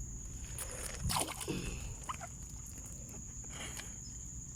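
A steady, high insect buzz, with a brief splash of water about a second in and a few lighter rustles after it.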